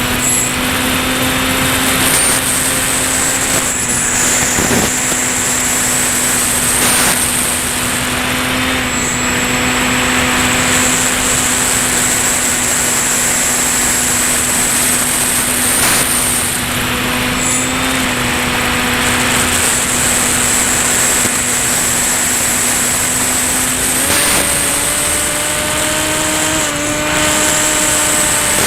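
Electric motor and propeller of a Ranger EX FPV model plane running steadily in flight, a steady low hum with a thin high whine above it over a rushing noise. The pitch steps up slightly about 24 seconds in.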